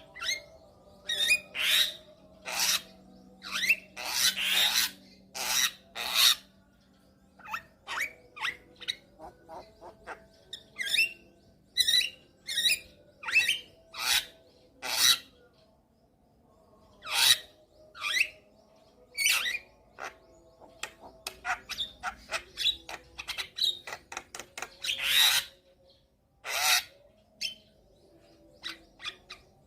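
Javan myna singing a long, varied run of short harsh calls and whistles in quick succession, with brief pauses between runs.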